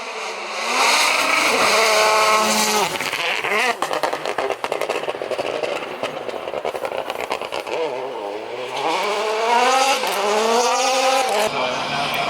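Rally car engine at full throttle, its note climbing in pitch through the revs. This gives way to a stretch of rapid crackling and gravel noise, then climbs again.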